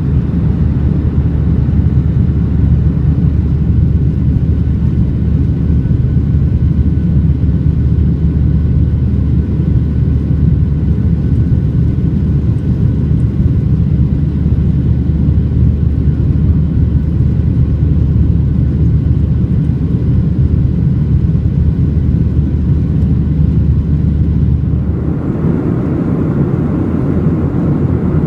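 Steady cabin noise inside a Boeing 737-800 airliner: a loud, even rumble of engines and airflow with faint steady tones above it. About 25 seconds in, the sound changes suddenly, with less deep rumble and more mid-pitched hiss.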